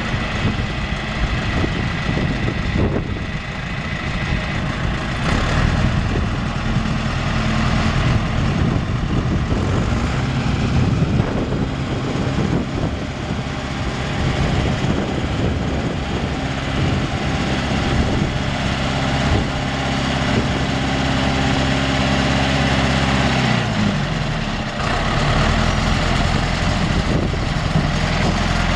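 Diesel engine of a John Deere 410 loader backhoe running. Its speed varies at first, holds steady through the middle, then drops in pitch a little after twenty seconds in and settles again.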